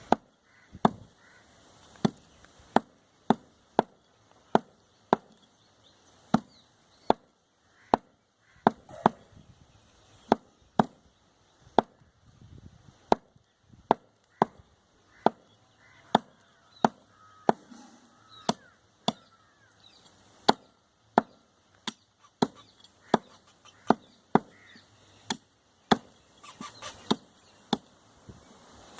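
A heavy knife or cleaver chopping goat meat on a wooden block, a sharp chop about every two-thirds of a second.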